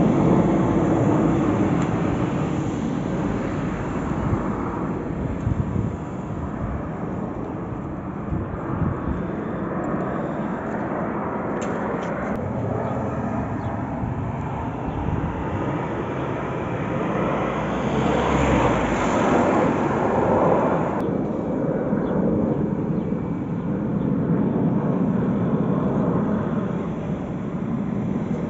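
Jet aircraft flying over with a steady rushing noise that swells to its loudest about two-thirds of the way through.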